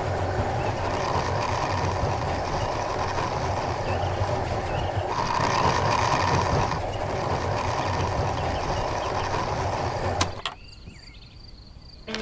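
A small motor running steadily with a low hum, louder for a stretch in the middle, then cutting off with a click about ten seconds in.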